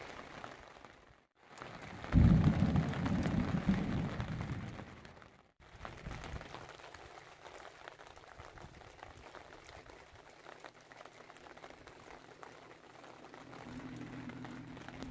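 Steady rain hiss, broken about two seconds in by a loud low rumble of thunder lasting about three seconds; a fainter low rumble swells near the end.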